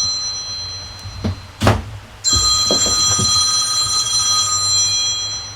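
An electronic ringing tone made of several steady high pitches fades away, cuts out, then starts again abruptly about two seconds in and rings on until near the end. A few short knocks come in between, around the time the ringing stops and restarts.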